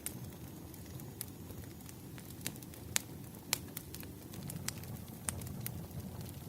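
Wood campfire crackling: irregular sharp pops and snaps, the loudest around the middle, over a low steady rush of burning.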